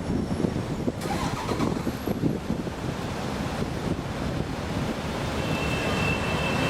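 Garbage truck running, with a steady rumble and wind noise on the microphone.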